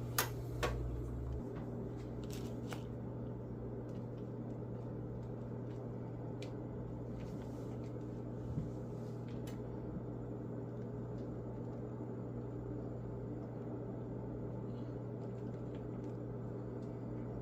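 Beignet dough frying in hot oil: a steady crackling sizzle over a constant low hum, with a few light clicks in the first few seconds.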